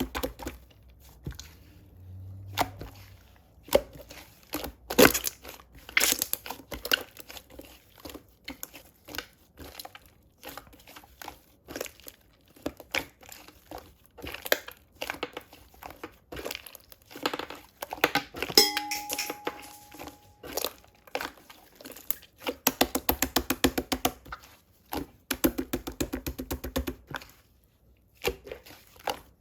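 Close-up crinkling and tearing of packaging material being handled, with many clicks and taps. Twice near the end comes a run of rapid, even ticking lasting a second or two.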